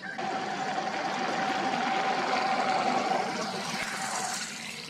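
A motor engine running with a steady whine, growing louder through the middle; the whine stops near the end and the sound fades.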